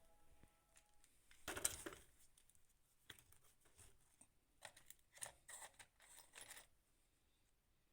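Near silence with a few faint short rustles and clicks: one about a second and a half in, then a scatter of them in the second half.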